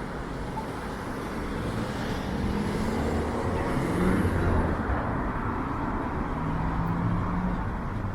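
City street traffic: cars driving past with tyre noise and engine hum, swelling as a vehicle passes close about halfway through.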